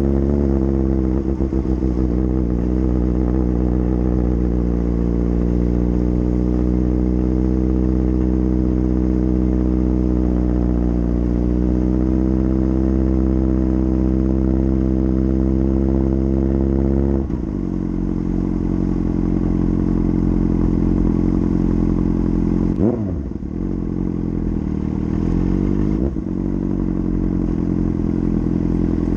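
Suzuki GSX-R600's inline-four engine running at a steady pitch while riding. About two-thirds of the way through it drops to a lower, quieter note, then gives two short revs a few seconds apart near the end.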